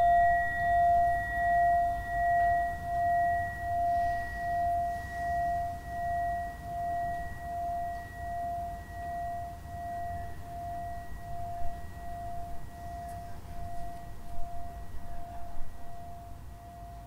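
Meditation bell ringing out after a single strike: one steady tone with a fainter higher overtone, pulsing in a slow wobble about one and a half times a second and fading gradually. A few soft knocks come near the end.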